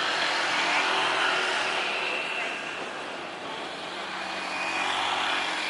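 Jet airliner engines, a steady rushing roar with a high whine, swelling and easing as the aircraft moves.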